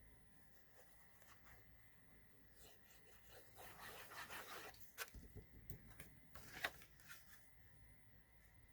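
Faint handling of cardstock on a desk: a short rubbing rustle about three and a half seconds in, then a few light taps and clicks, the sharpest near the middle.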